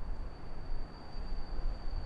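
Low, uneven rumble that swells just before the start and keeps fluctuating, with a steady high-pitched insect trill held above it.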